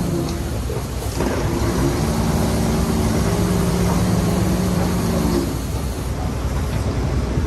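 Heavy diesel engine running, a steady engine note over a low rumble; the note fades away about five and a half seconds in, leaving the rough rumble.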